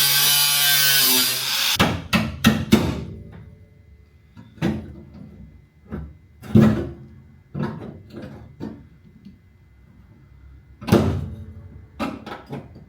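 A power saw cutting the car's bodywork, its pitch wavering, stops abruptly about two seconds in. It is followed by sparse music of single struck notes, each ringing briefly.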